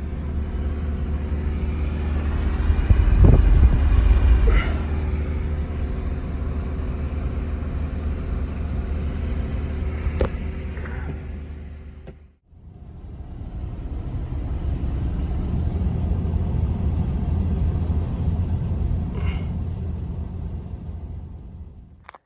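Low, steady rumble of a running motor vehicle, in two stretches split by a brief break about twelve seconds in.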